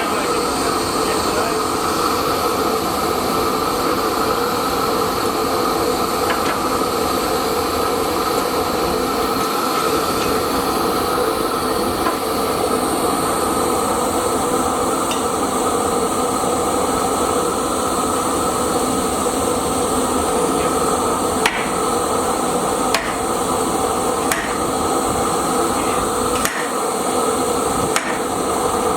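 Metalworking at a forge: a continuous loud mechanical din with steady tones, and in the second half about half a dozen sharp, separate hammer strikes on hot steel.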